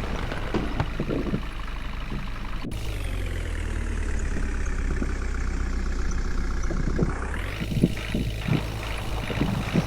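Engine of a water tanker vehicle running steadily, with occasional short knocks and rattles.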